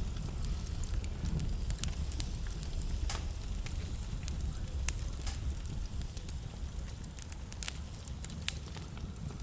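Wood fire burning in a fireplace: a steady low rumble of flame under frequent, irregular crackles and sharp pops from the burning logs.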